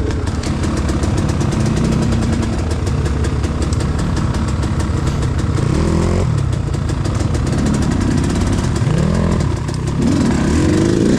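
Enduro dirt-bike engine running off-road, its revs rising and falling again and again as the throttle is worked, with sharper rev-ups about halfway through and near the end.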